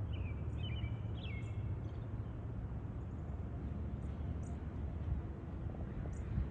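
A steady low rumble, with a quick run of several short bird chirps, some sliding down in pitch, in the first second and a half.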